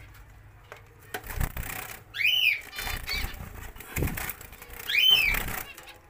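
A caged bird gives two short whistled calls about three seconds apart, each rising and then falling in pitch. A few soft low knocks come in between.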